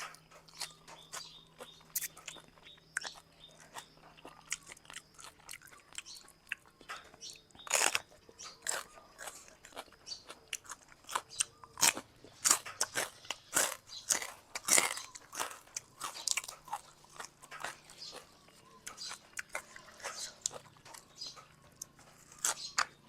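Close-miked eating of Thai boat noodles: chewing and crunching with irregular wet smacks and clicks, busiest in the middle stretch.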